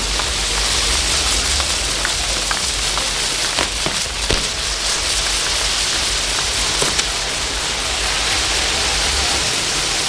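Ground fireworks burning: a steady hiss of spraying sparks with scattered sharp pops and crackles.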